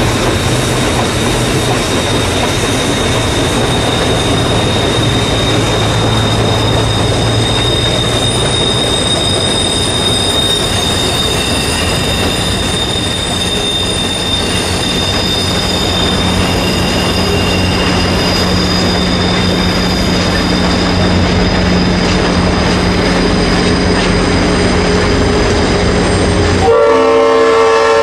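Passenger train rolling past, its wheels giving steady high-pitched squeals over a rumble from the rails. About a second before the end, a locomotive horn starts blowing.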